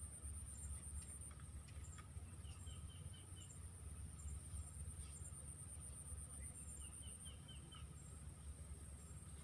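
Insects keep up a steady, high, pulsing trill. A bird gives two short runs of about five quick repeated notes each, around three and seven seconds in. A low rumble runs underneath.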